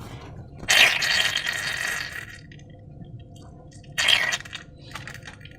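Wet slime squishing and squelching as it is squeezed and worked, in two bursts: a longer, louder one starting just under a second in, and a short one about four seconds in.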